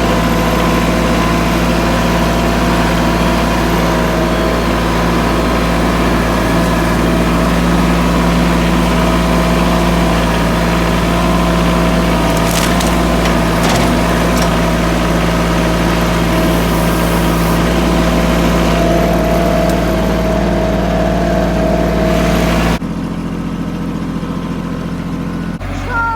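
A vehicle engine running steadily at a constant speed. It cuts off abruptly about 23 seconds in.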